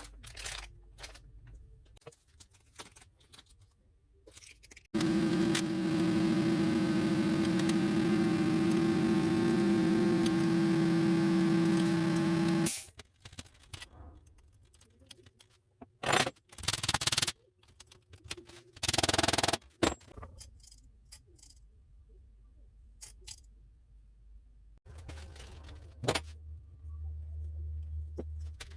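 Workshop sounds: a motorised tool runs steadily for about eight seconds and then stops, followed by scattered metal clinks, two short bursts of noise and a low hum near the end.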